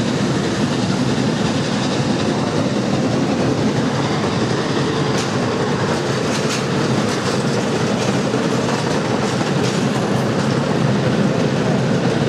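Passenger train cars rolling past at speed: a steady rumble of steel wheels on rail, with a run of sharp clicks over the rail joints through the middle.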